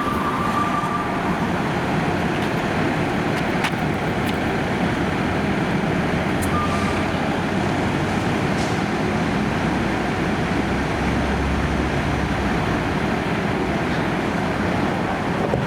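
Street traffic noise: a steady wash of passing vehicles with engine rumble, and a stronger low engine rumble from about ten to twelve seconds in.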